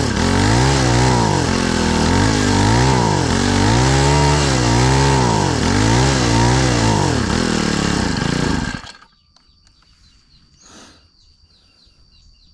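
Brush cutter engine running and hunting, its speed rising and falling about once a second, then stopping about nine seconds in. The surging is a sign that the carburettor's mixture needle still needs adjusting, as the owner judges.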